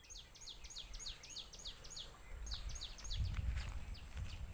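A bird singing a quick series of high, downward-sliding notes, about five a second, pausing briefly about two seconds in before starting again. A low rumble comes in during the last second and a half.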